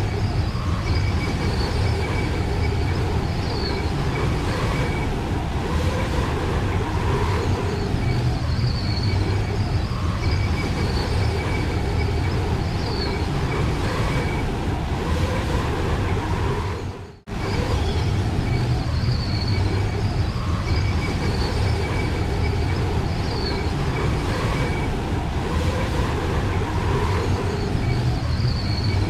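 Strong blizzard wind blowing steadily with a deep rumble, cutting out for a moment about seventeen seconds in.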